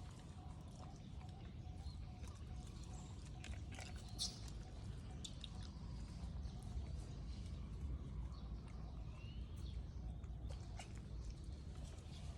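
Faint outdoor ambience: a steady low rumble with scattered small clicks and rustles, and one short rising chirp about three-quarters of the way through.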